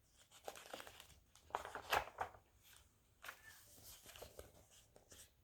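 Paper rustling and crinkling in irregular bursts as a picture book's page is turned and handled.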